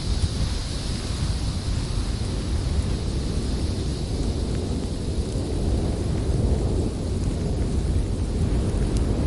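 Howling winter wind: a steady deep rumble with a higher hiss over it that fades about halfway through.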